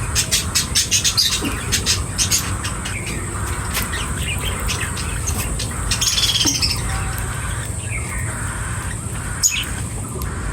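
Birds chirping: a fast run of short chirps in the first two seconds or so, a harsher call about six seconds in, and a single sharp click near the end, over a steady low hum.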